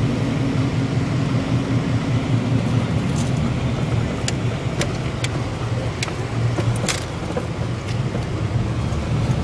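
Steady low rumble of a car driving, heard from inside the cabin, with several sharp clicks in the middle few seconds.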